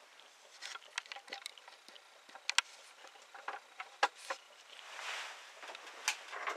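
Workshop handling sounds: scattered light clicks and taps, with a soft rustle about five seconds in.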